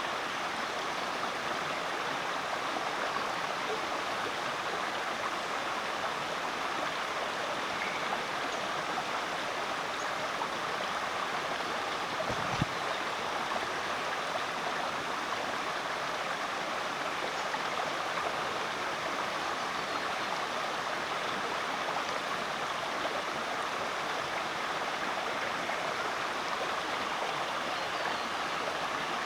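Rainforest creek running steadily, an even rushing and babbling of water. A single brief low thump about halfway through.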